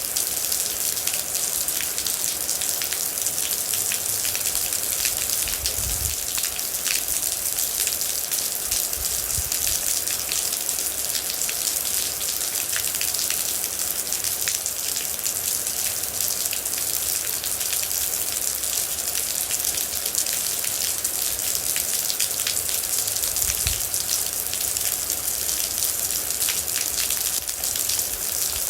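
Steady heavy rain falling on a surface, a dense, even patter of drops, with a couple of brief low thuds about six seconds in and near the end.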